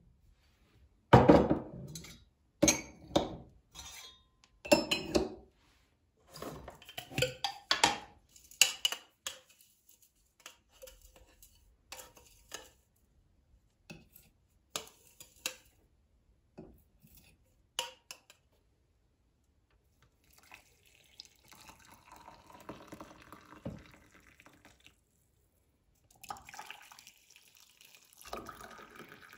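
Dishes and kitchen utensils clattering and knocking against each other, a string of sharp clinks and thuds, giving way in the last third to softer, steadier noise.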